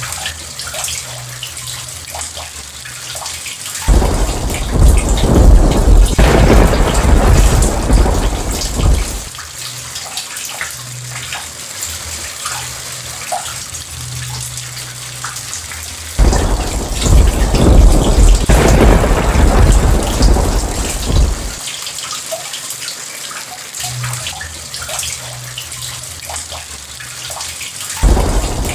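Steady rain with thunder: a thunderclap rumbles in suddenly about four seconds in and rolls for about five seconds, another comes about twelve seconds later, and a third starts near the end.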